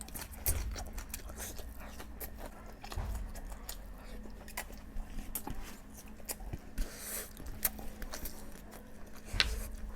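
Close-miked eating sounds: a person chewing and biting boiled eggs and chicken curry, with many short wet mouth clicks and smacks. There are a few louder low thumps about half a second in, about three seconds in and near the end.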